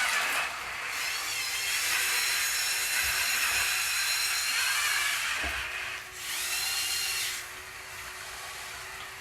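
Small electric motors and gearing of RC construction models whining, high-pitched, starting and stopping in spells.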